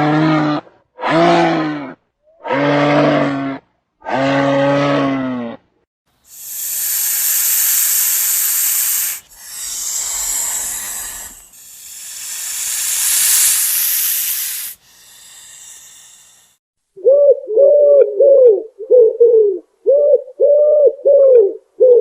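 A run of animal calls in turn. First come four pitched calls of about a second each. Then four long hisses follow, and near the end a fast series of short rising-and-falling notes.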